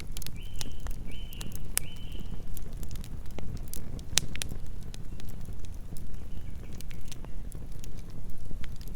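Campfire burning: wood crackling and popping in irregular sharp snaps over a low steady rumble. Three short high chirps sound in the first two seconds, with fainter ones later.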